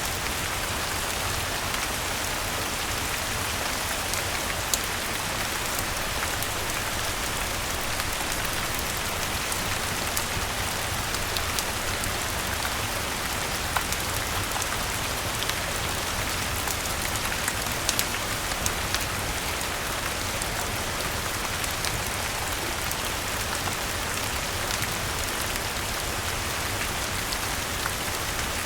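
Steady rain falling, an even hiss with scattered sharp ticks and small crackles through it.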